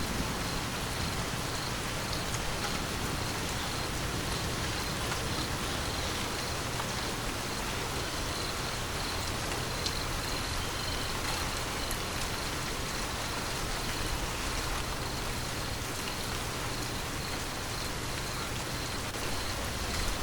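Steady rain falling, an even, unbroken patter on surfaces.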